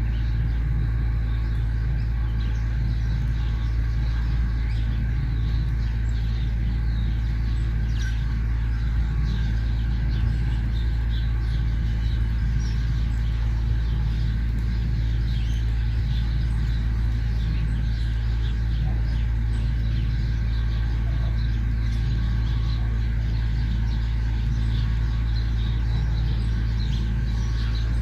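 Many small birds chirping in short, scattered high calls throughout, over a loud, steady low rumble.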